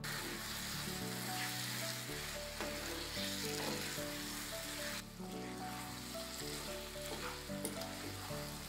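Marinated chicken pieces sizzling on high heat in a nonstick pan, with a spatula scraping and stirring them now and then. Background music plays underneath.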